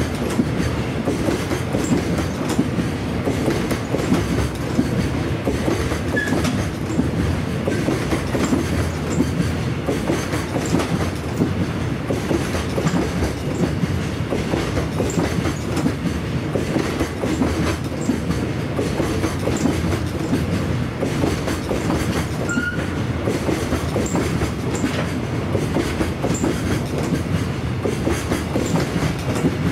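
Long electric-hauled container freight train's wagons rolling past steadily, their wheels clattering over the rail joints.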